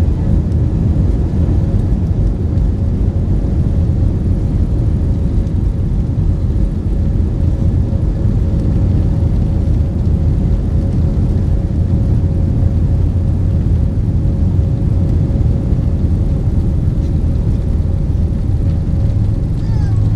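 Steady cabin noise of an Airbus A320-232 with its IAE V2500 engines running, heard from a seat by the wing: a constant deep rumble with a faint steady hum.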